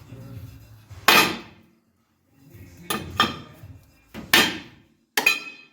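Hammer blows on steel, about five sharp ringing strikes spaced unevenly, knocking a ball joint loose from the front suspension of a 1978 Chevy C10.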